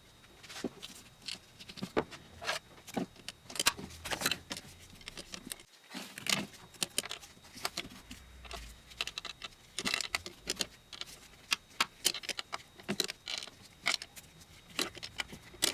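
Irregular metallic clicks and clinks of hand tools and fittings being handled while a transmission cooler line is fitted and fastened under the car.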